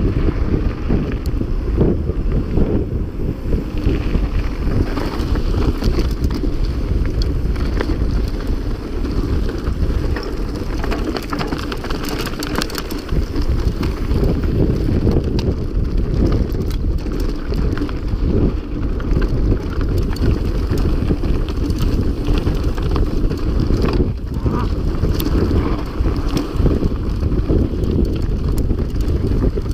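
Wind buffeting the microphone of a mountain bike moving at speed, with the bike rattling and clattering over rough ground throughout.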